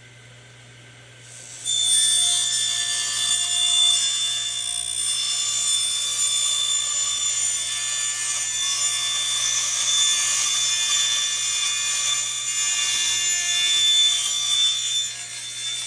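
Electric power tool running steadily as it works a wooden floor register, starting abruptly about a second and a half in and easing off a little near the end.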